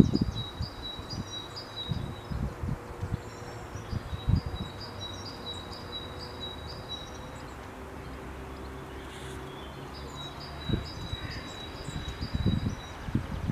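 A small songbird singing phrases of short, repeated high chirps, with low gusts of wind buffeting the microphone. A faint steady hum sits underneath.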